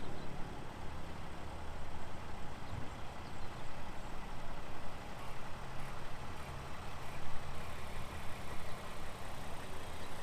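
A vehicle engine idling steadily: an even low hum under a constant background rush.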